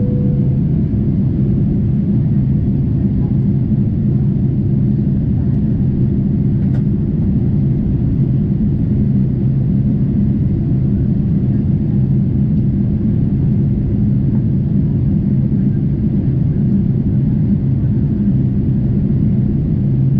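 Steady cabin drone of a Boeing 747-8 in flight, engine and airflow noise heard from inside the cabin. The lower note of a two-note cabin chime sounds at the very start.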